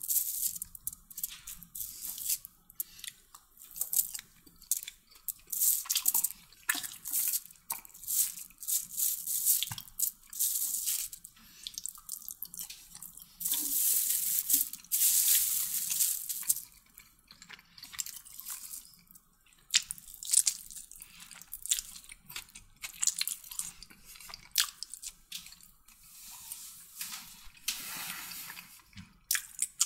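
Close-miked chewing of chicken kottu, with wet mouth clicks, smacks and soft crunches coming in irregular bursts and a longer, louder stretch around the middle. The chopped roti being chewed is hard and rubbery.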